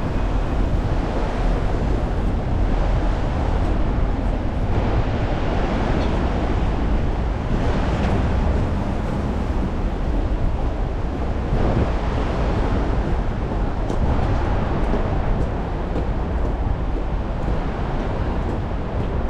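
Strong wind buffeting the microphone in gusts, a deep rumble over a steady wash of rain and street noise.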